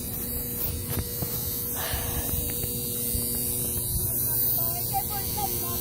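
A steady electrical hum with a low rumble underneath, with a brief rustle about two seconds in and a few faint short chirps near the end.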